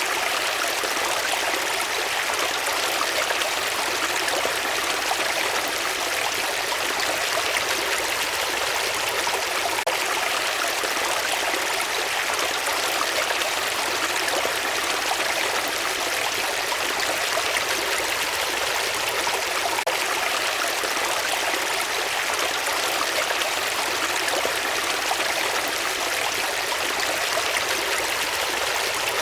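A stream of running water flowing steadily, an even rush with no breaks or changes.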